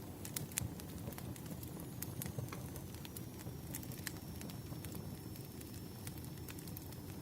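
Crackling wood fire: irregular sharp pops and snaps over a steady low rumble of burning logs.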